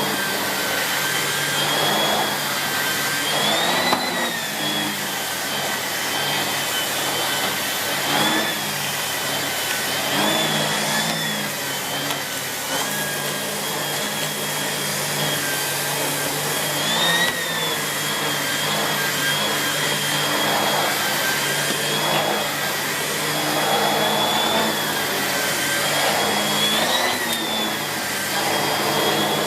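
Miele S8730 (C3 Complete) cylinder vacuum cleaner running steadily while floors are cleaned, its motor whine briefly rising and falling in pitch every few seconds.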